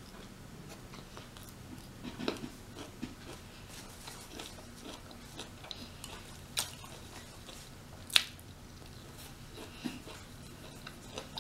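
A person eating close to the microphone: soft chewing and biting with scattered wet mouth clicks and smacks. The sharpest click comes about eight seconds in.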